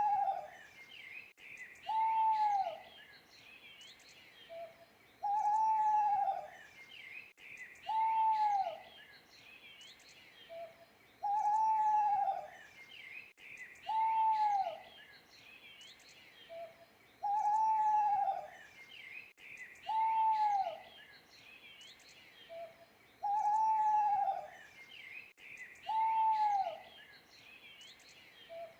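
Owl hooting in a repeating phrase: a short low note, a longer arching hoot, then a second hoot about a second later, the phrase coming roughly every six seconds. Small birds chirp steadily in the background.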